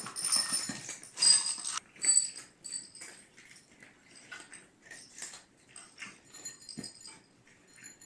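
Cats at their food bowls: short irregular clicks and scratchy sounds, with a few louder hissy bursts in the first two seconds.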